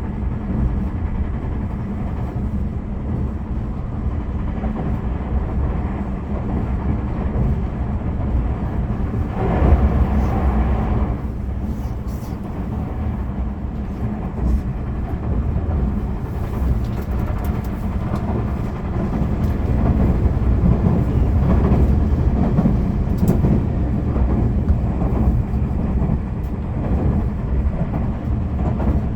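Running noise of a Tobu Railway limited express train heard from inside the passenger car: a steady low rumble of wheels on rail. About ten seconds in there is a brief louder rush.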